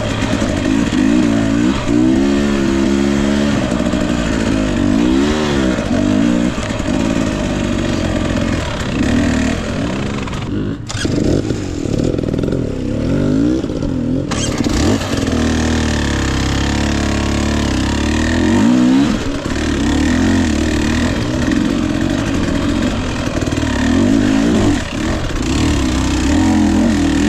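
2021 Husqvarna TE 250i two-stroke fuel-injected dirt bike engine revving up and down over and over as it is ridden on technical trail, with a few seconds of duller, lower running near the middle.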